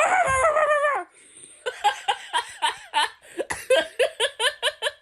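A person laughing in a rapid run of short high-pitched giggles, about four or five a second, after a drawn-out high-pitched cry in the first second.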